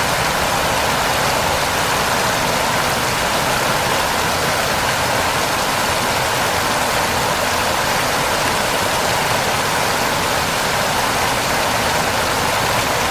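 Waterfall: a steady, loud rush of falling water that stays even throughout.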